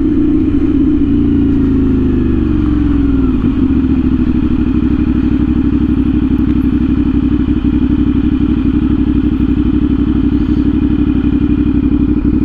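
CFMOTO 450SS parallel-twin engine through an aftermarket slip-on exhaust. Its revs fall over the first three seconds or so, then it settles to a steady low note.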